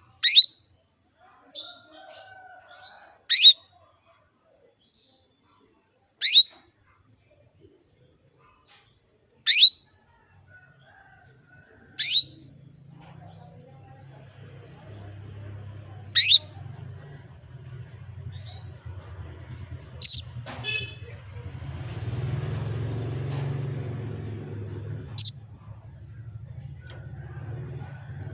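Female canary calling: eight loud, sharp, upward-sweeping chirps, one every three to five seconds, with soft quick runs of high pips between them. A low hum comes in about halfway through.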